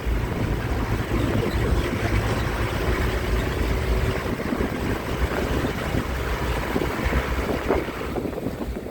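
Steady rumble of a moving bus, with wind buffeting the microphone.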